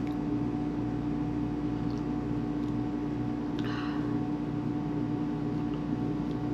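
A steady mechanical hum with a constant tone, with a faint brief rustle a little past the middle.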